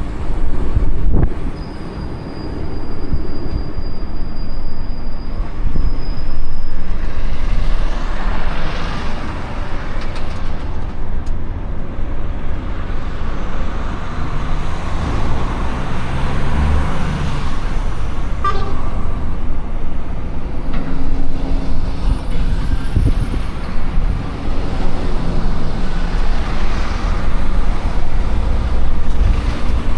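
Heavy vehicle running with a loud, steady low rumble, and a thin high whine in the first few seconds.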